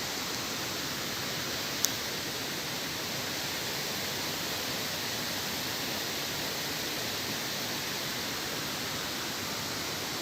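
Steady rushing of flowing water, as from a waterfall or fast stream, with one brief click about two seconds in.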